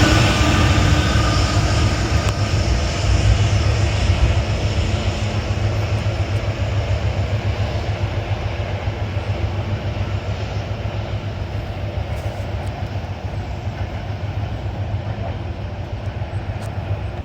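Metro-North train rumbling past and slowly fading as it moves away, with gusty wind buffeting the microphone. The sound cuts off abruptly at the end.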